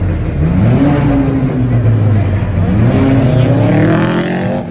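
A car engine revving hard, its pitch climbing and dropping and then climbing again.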